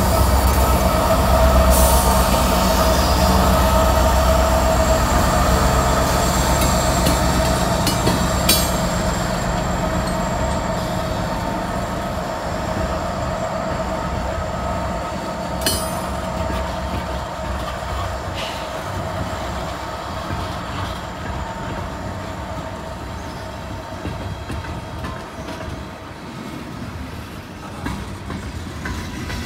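Loaded coal train rolling past on jointed track. A low locomotive rumble fades in the first couple of seconds, leaving the cars' wheels rolling and squealing on the rails with a few sharp clicks, all slowly getting quieter.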